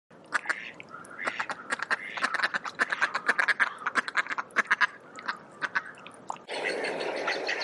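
Duck quacking in a quick, chattering run of short calls, several a second. About six and a half seconds in it gives way to a steady hiss.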